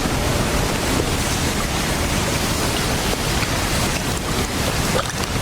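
Storm wind blowing hard across the microphone, a steady rushing noise heavy in the low end, as in blizzard footage.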